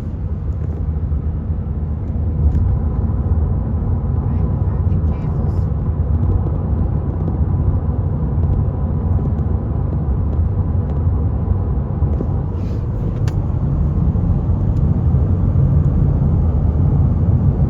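Steady low road and engine rumble of a car driving at highway speed, heard inside the cabin.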